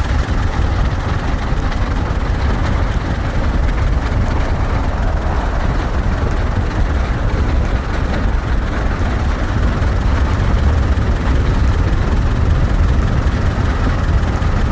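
Steady low rumble and rushing noise of a vehicle travelling at speed, with no distinct beat or pitch.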